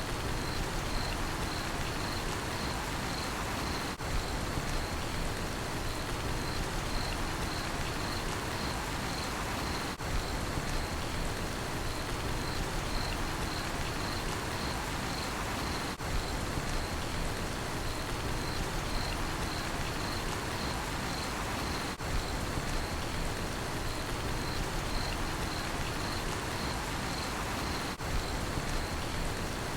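Steady rain falling, with crickets chirping in a fast, even pulse above it. The sound dips briefly every six seconds or so.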